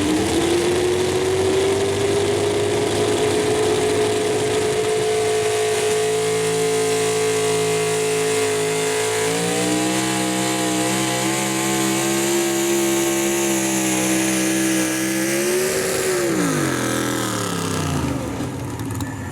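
Super stock 4x4 pulling truck's engine running at high revs under load: the pitch climbs over the first few seconds, holds steady, steps down about nine seconds in, then falls away near the end as the engine winds down.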